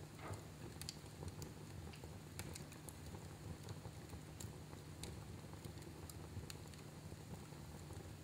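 Fire crackling in a fireplace: scattered sharp pops and snaps, a few a second, over a low steady rumble of the flames.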